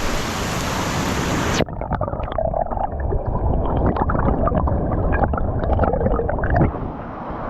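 Powerful waterfall rushing loudly. About a second and a half in the sound turns suddenly duller and muffled, with low rumble, gurgling and scattered knocks.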